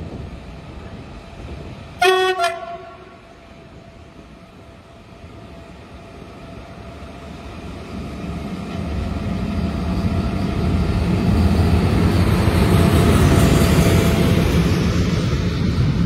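Electric locomotive sounds a short horn blast, about half a second long, roughly two seconds in. Then the locomotive-hauled passenger train comes in, and the rumble of wheels on the rails builds from about eight seconds to its loudest as the coaches pass close by.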